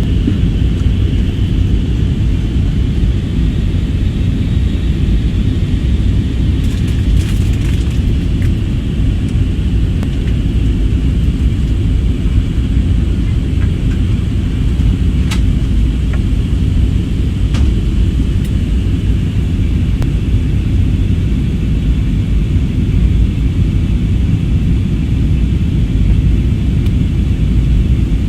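Steady low rumble of airplane engines, unchanging throughout, with a faint high whine above it and a few brief ticks.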